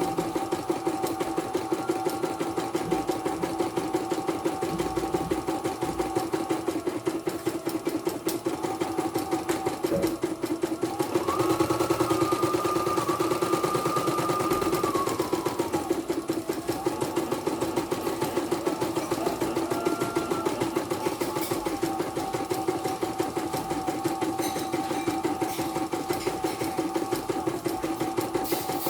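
Portable computerized embroidery machine stitching a design, its needle running in a fast, even rhythm over a steady motor hum. Partway through, a higher whine rises in pitch, holds for a few seconds, then falls back.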